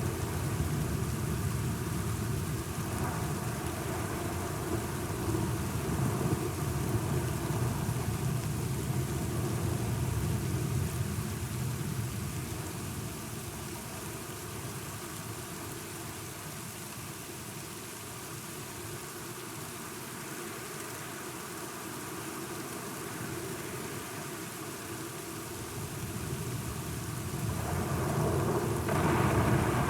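Steady rain with low rolling thunder. The rumble swells over the first ten seconds or so, eases off, then builds again near the end.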